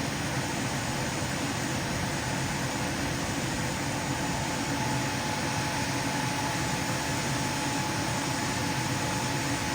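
Steady mechanical whir and hiss of a running machine, even throughout, with a faint thin hum coming in about halfway through.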